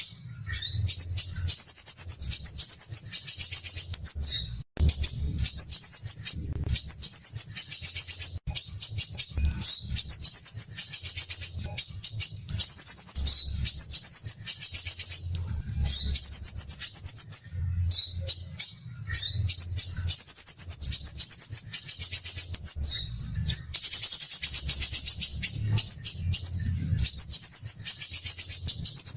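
Crimson sunbird (sepah raja) singing rapid, dense, harsh trills, high-pitched, in phrases of one to two seconds with brief breaks between them.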